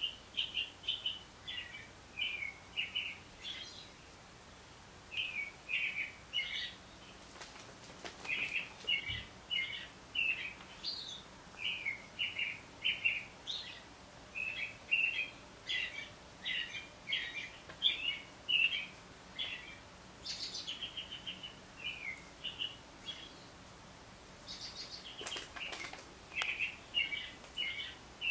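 Birdsong: a stream of short, high chirps and trills, with a few brief lulls.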